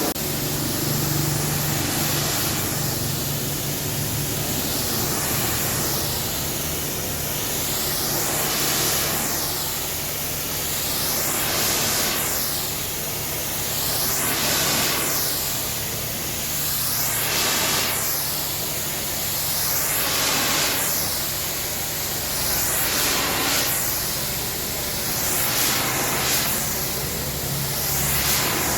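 Pressure washer spraying a truck: a steady hiss of water that swells and fades about every two seconds, with a steady low hum underneath.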